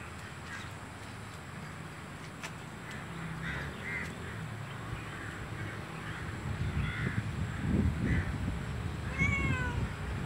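Short bird calls repeated every second or so, then a longer call with several wavering overtones near the end, over a low rumble that grows louder in the second half.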